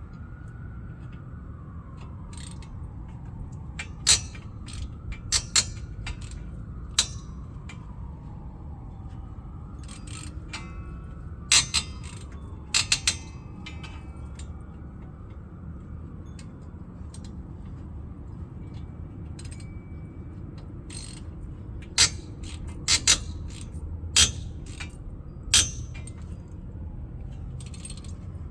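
Hand tools clinking and clicking against the rear brake caliper hardware of a 2009 Infiniti QX56, about a dozen sharp metallic clicks in irregular clusters. Under them is a steady low hum and a faint tone that rises and falls slowly in pitch.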